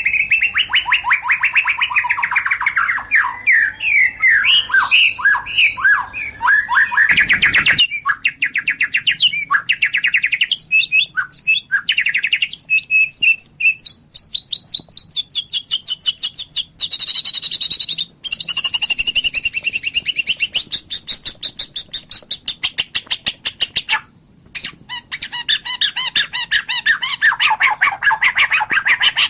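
White-rumped shama singing a long, varied song: quick stuttering phrases, then long fast trills of rapidly repeated notes mixed with higher clear ringing notes, broken by a couple of short pauses.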